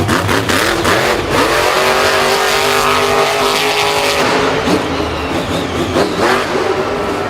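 A vehicle engine running, with a steady pitched drone through the middle and scattered sharp clicks.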